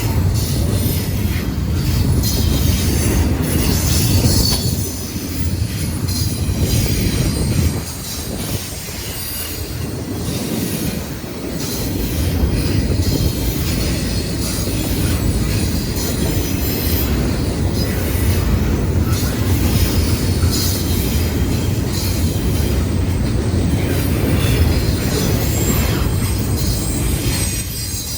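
Freight train cars rolling past with a steady low rumble, their wheels squealing on the rail now and then in thin high tones.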